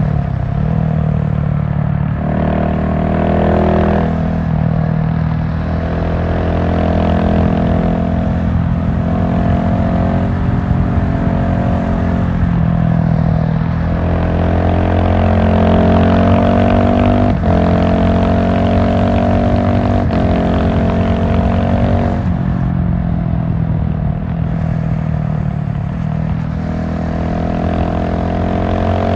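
GasGas SM700 supermoto's single-cylinder engine running under way, its revs rising and falling several times as it rides.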